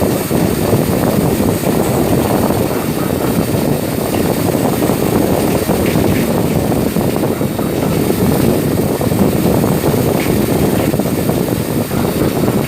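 A CNC machine running, giving a steady, loud, noisy rumble with no clear pitch.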